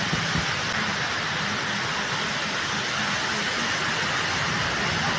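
Heavy monsoon rain falling, a steady, even hiss.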